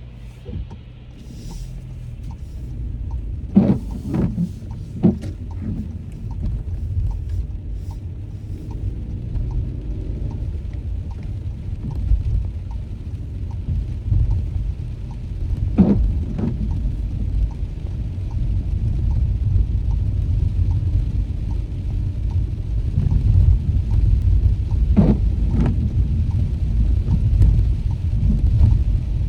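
A steady low rumble that grows slightly louder, broken by a few short knocks.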